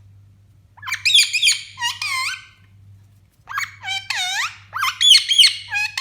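Pet parrot calling in two runs of short, shrill squawks, each call a quick rising-and-falling note, with a short pause between the runs. A faint steady electrical hum lies underneath.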